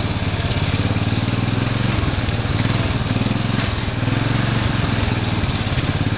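Riding mower's 14.5 hp Briggs & Stratton overhead-valve single-cylinder engine running steadily under way, exhausting through its stock muffler, with slight dips in speed about two and four seconds in.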